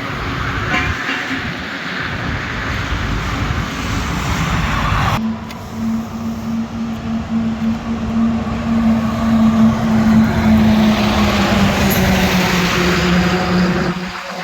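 Road vehicle noise on a highway. About five seconds in the sound changes abruptly, and a steady low engine hum takes over and holds.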